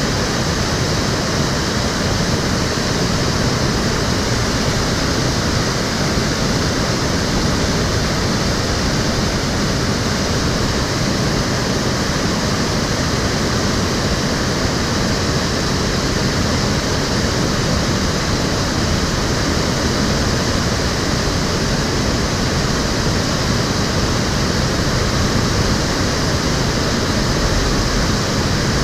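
Water of the Cheonggyecheon stream flowing and splashing over its weirs and stones, a steady, even rush.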